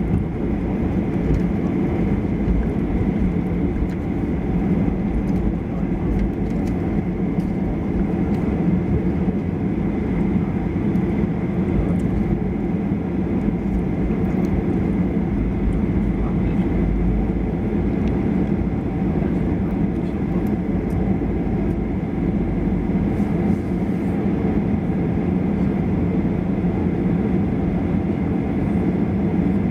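Boeing 737-800's CFM56-7B jet engines at takeoff power, heard from inside the cabin: a loud steady rush with a constant high fan tone over a low rumble.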